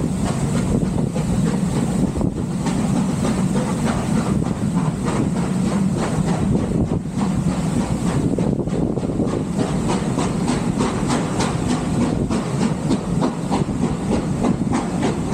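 Steam train running along the line: a steady rumble with rapid rail clicks from the wheels, and a hiss.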